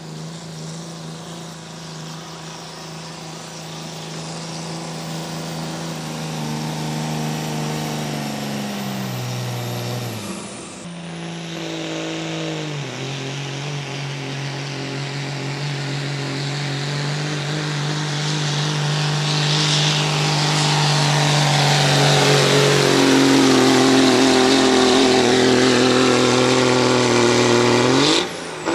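A pulling truck's engine running hard under load as it drags a weight sled. About ten seconds in its pitch sags and it briefly drops off, then it picks up again and grows steadily louder before stopping suddenly near the end.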